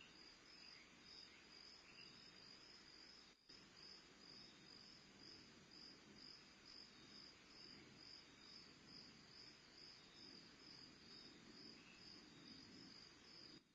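Faint crickets chirping in a steady, even pulse, several chirps a second, over a low background hiss. The sound drops out briefly about three and a half seconds in.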